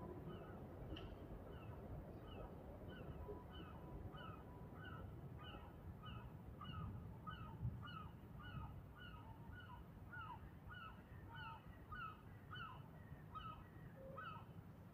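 A bird calling over and over, a short hooked note about twice a second, over a faint low rumble.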